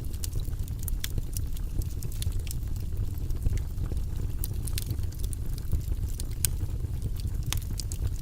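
Wood fire burning in a fireplace: a steady low rumble of flames with frequent irregular crackles and small sharp pops.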